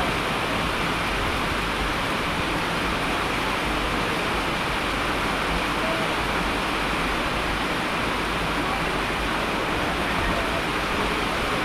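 Heavy rain ambience: a steady, even rushing hiss of falling water that does not change or break.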